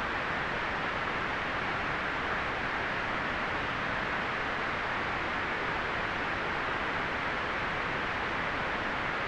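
Steady white noise for relaxation: an even, unchanging hiss, strongest in the upper middle and softer in the highest treble.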